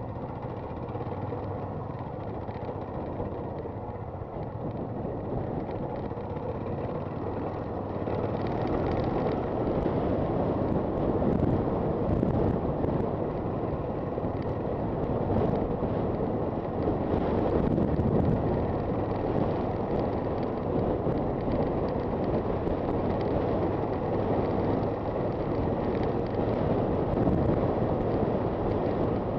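Honda FT400's single-cylinder engine running steadily under way, with wind noise on the microphone. The wind noise grows louder about eight seconds in.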